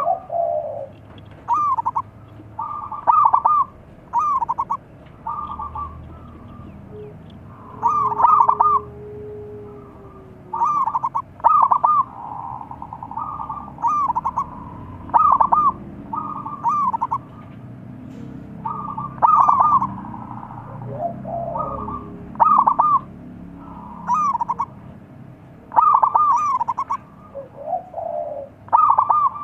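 Zebra doves (perkutut) cooing: short, rolling, staccato coo phrases repeated every second or two, with a lower call now and then.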